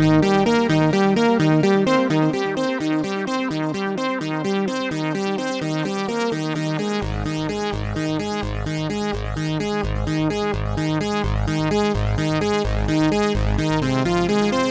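Arturia OB-XA V software synthesizer, an emulation of the Oberheim OB-XA, playing a fast sequence of short repeating notes. The low bass part drops out just after the start and comes back about seven seconds in.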